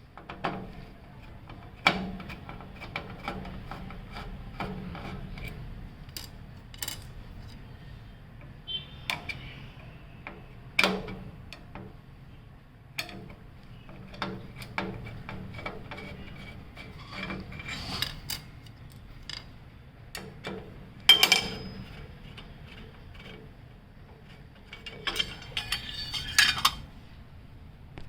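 A screwdriver working screws out of a UPS's metal casing: a string of ratcheting clicks and scrapes with sharp metallic knocks, the loudest about 21 seconds in, and a flurry of rattles near the end.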